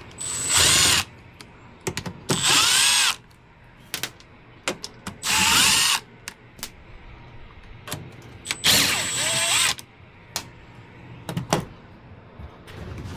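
Power drill run in four short bursts, its motor whine rising and falling each time, most likely backing screws out of the indoor unit's access panel; small clicks and knocks between the bursts.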